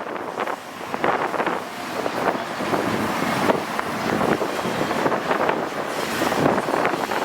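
A long intermodal freight train's cars rolling past, steel wheels on the rails making a steady rumble with frequent irregular clacks. Wind buffets the microphone.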